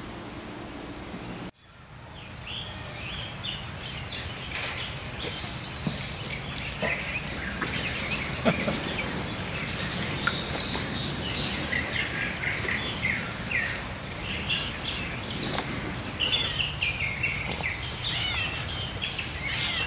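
Small birds chirping repeatedly over a steady outdoor background, starting after a sudden drop in sound about a second and a half in.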